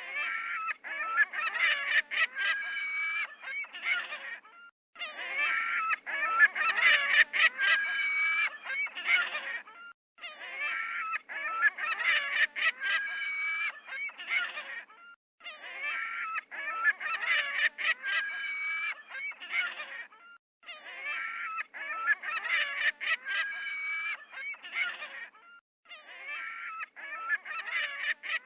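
Geese honking, many calls overlapping, in bouts of about five seconds with short pauses between them.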